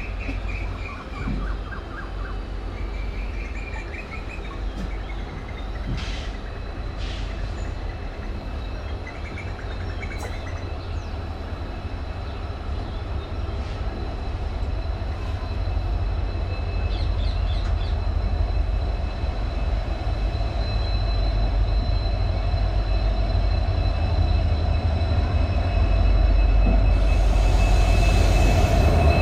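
Passenger train running on the rails, its rumble growing steadily louder, with birds chirping over it for the first several seconds.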